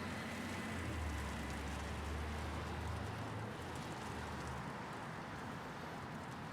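Low engine rumble of passing traffic over a steady hiss of falling hail. The rumble dies away about two-thirds of the way through, leaving the hail.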